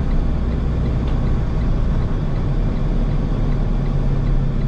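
Semi-truck's diesel engine heard from inside the cab, running under load on a hill climb: a steady low drone whose pitch shifts about two seconds in.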